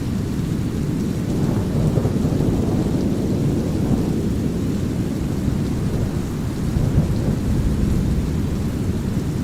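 Thunder rumbling over a steady bed of brown noise and light rain; the rumble swells from about one and a half to four seconds in, with smaller surges later.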